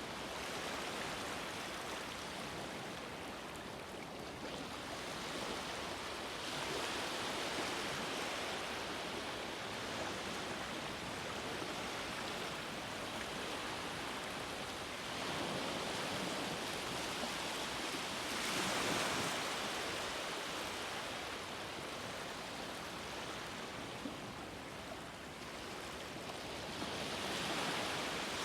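Sea waves washing onto the shore in a continuous rush, swelling louder every several seconds as each wave breaks and then easing off.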